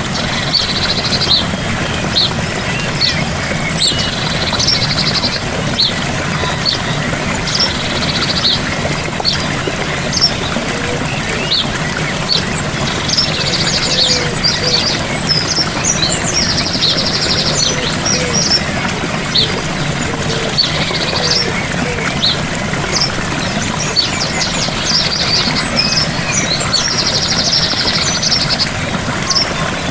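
Steady rush of a gentle waterfall, with birds chirping over it and one bird repeating a short, rapid trill every few seconds.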